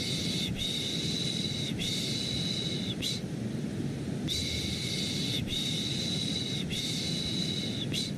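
Looped 'shh, shh, shh' shushing for settling a baby, in groups of three long shushes and a brief fourth, then a pause of about a second. Under it runs a steady, low white-noise rush.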